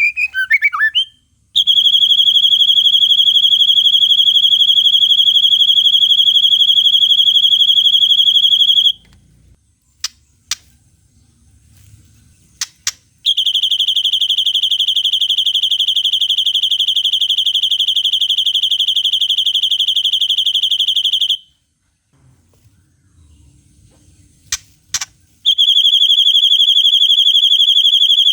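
White-rumped shama (murai batu) singing long, high, very fast trills in the cililin style, three of them lasting several seconds each, with short sharp 'shot' notes in the gaps between them and a burst of chirps at the start.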